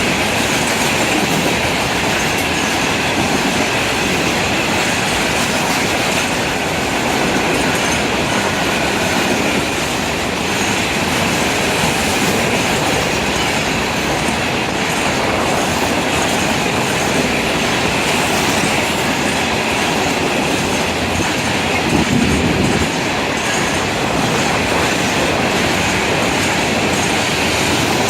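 Freight cars of a Florida East Coast Railway train rolling past close by, with the steady loud rumble and clickety-clack of steel wheels over the rails. One brief louder knock comes about three-quarters of the way through.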